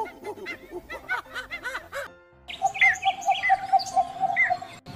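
Animal calls in two parts: first a quick run of short, chirping rise-and-fall calls, then, after a brief break about two seconds in, a flock of flamingos calling, a steady pulsed honking chatter with higher calls over it.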